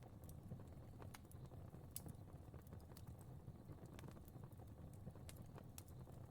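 Faint fire crackling: scattered, irregular sharp pops and snaps over a steady low rumble.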